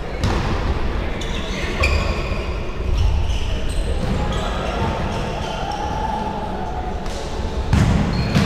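A football being kicked and bouncing: several dull thuds, the loudest near the end, among players' shouts.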